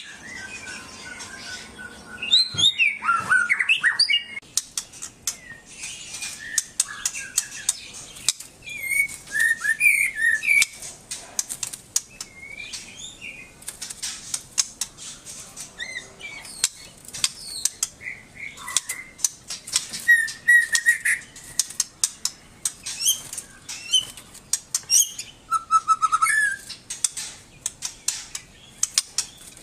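Songbird chirping and whistling in short, varied phrases and quick glides, mixed with many sharp clicks.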